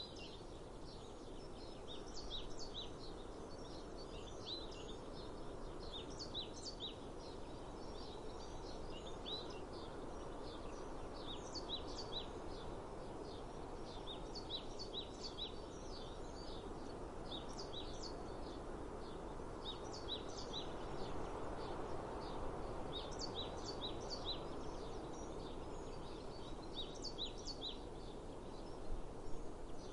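Small songbirds chirping, in repeated clusters of short, quick, high notes throughout, over a steady low outdoor rush.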